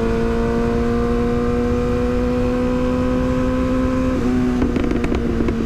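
Yamaha R6 sportbike's inline-four engine running at steady high revs while riding, an even whine over a low rush of wind and road. Its pitch dips slightly about four seconds in, followed by a few brief clicks.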